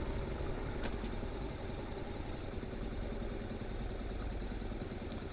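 Honda NC750X's parallel-twin engine idling steadily through an aftermarket GPR muffler.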